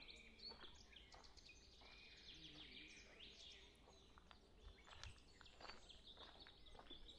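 Faint small birds chirping, short high calls scattered through quiet outdoor ambience, with a few soft clicks.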